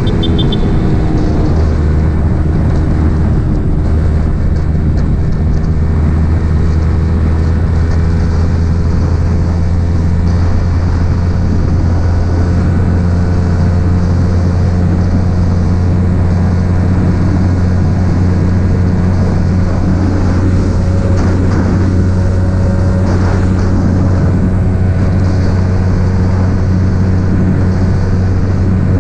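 Yamaha XSR 155's single-cylinder engine breathing through an aftermarket M4 exhaust, running at a steady cruising pitch while the motorcycle is ridden.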